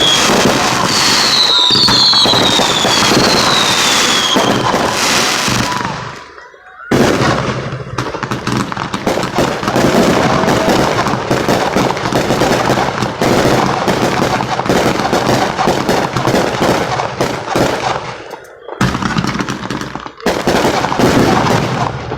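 Fireworks going off in a dense run of rapid cracks, with falling whistles in the first few seconds. The crackle cuts out suddenly about six seconds in, starts again abruptly a second later, and breaks off briefly twice near the end.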